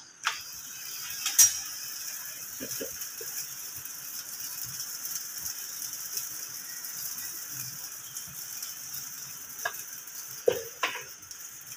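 Potato paratha sizzling in ghee in a nonstick frying pan, a steady hiss, with a few light taps of the spatula and brush against the pan near the start and near the end.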